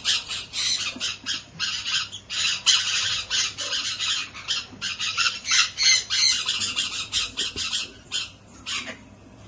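Baby sun conures squawking in rapid, harsh, overlapping calls that thin out near the end.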